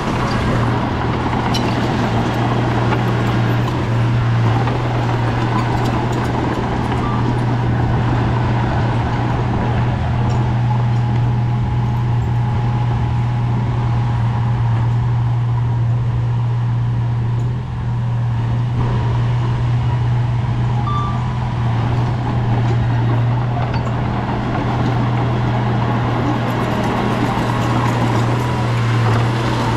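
Bulldozer's diesel engine running steadily with a deep, constant hum, dipping briefly a little past the middle.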